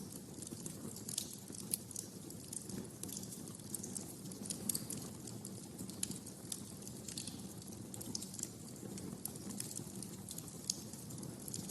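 Wood fire burning in a fireplace: irregular sharp crackles and occasional louder pops over a steady low rumble of the flames.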